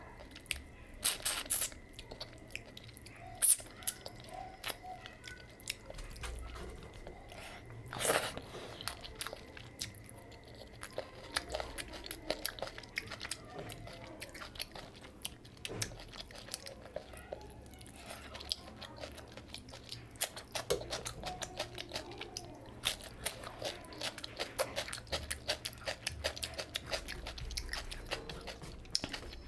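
Close-miked eating sounds of rice and fish curry eaten by hand: chewing and lip smacks, with a few louder sharp clicks in the first eight seconds, then quick, steady clicking that grows busier near the end.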